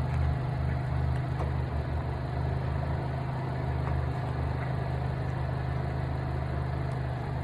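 A car engine idling steadily, a low, even hum.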